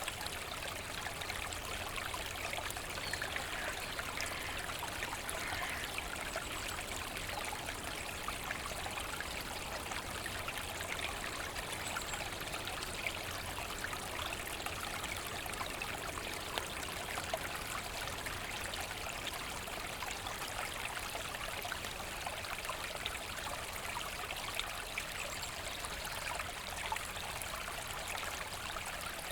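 A forest stream babbling and trickling steadily over stones.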